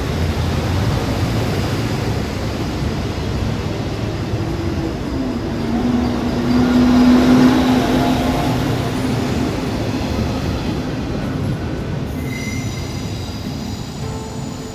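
Regional train on the rails, a steady rumble with a humming tone that rises about five seconds in, loudest around seven to eight seconds, then easing off.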